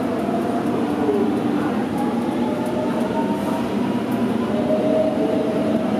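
Electric train moving past along a station platform: a steady rumble of running gear under a motor whine whose pitch drifts slowly.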